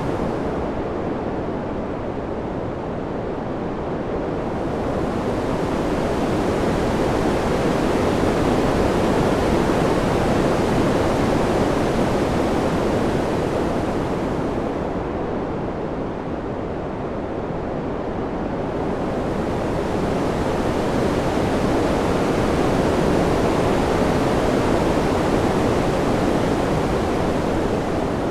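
Steady wind ambience: a continuous, full noise that slowly swells and eases. It turns duller twice, once near the start and once about halfway through, then brightens again.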